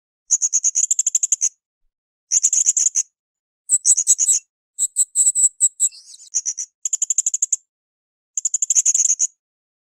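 Blue-crowned hanging parrot (srindit) calling: short bursts of rapid, very high-pitched chirps, about seven bursts, each under a second long, separated by brief pauses.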